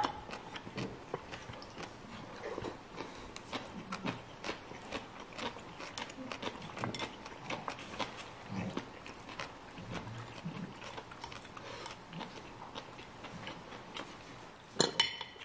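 Close-miked chewing of crunchy green papaya salad: a run of soft, irregular crunches and mouth clicks, with a brief louder sound near the end.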